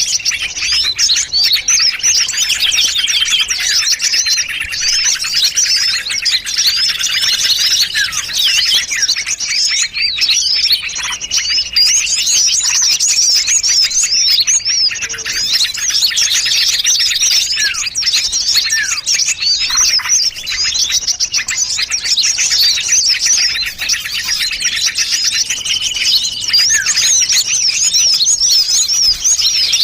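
Dense, continuous chorus of small songbirds chirping and twittering over one another in rapid high notes, without pause: a mixed-species bird-lure recording played to attract small birds.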